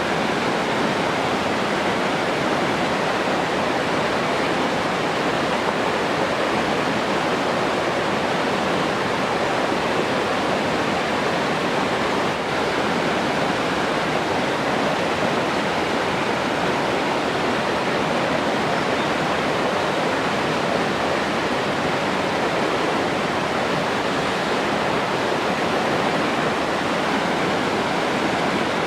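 Rushing water running steadily: an even, unbroken hiss with no separate splashes or changes.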